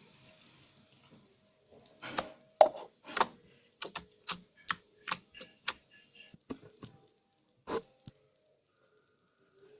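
Slime being squeezed and poked, giving a run of sharp, irregular popping clicks as air pockets burst, about one or two a second, with a last pop near the end.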